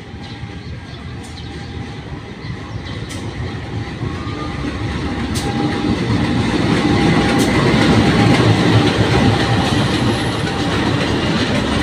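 Commuter Line Garut passenger train running on the rails, a steady rumble growing louder over about eight seconds and then easing slightly, with the wheels clicking over the track now and then.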